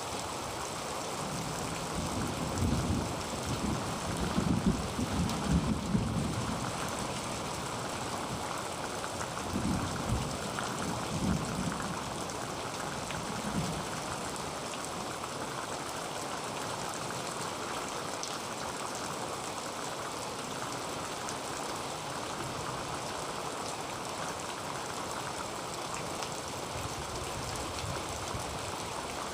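Heavy rain falling steadily on a tin roof, an even hiss. Deep low rumbles swell up a few times in the first half.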